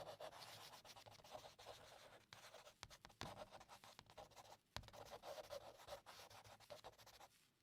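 Near silence with faint, irregular scratching and rubbing.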